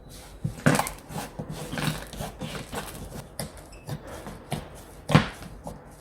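Slime being squeezed and pressed by hand, making a run of sticky clicks and pops, with louder pops about a second in and again near the end.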